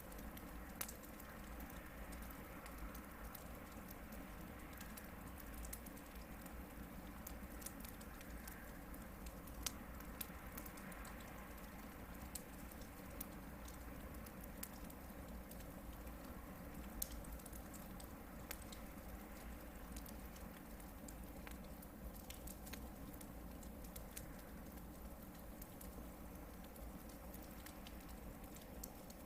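Hardwood campfire burning, with steady faint crackling, scattered ticks and a few sharper pops over a low rumble.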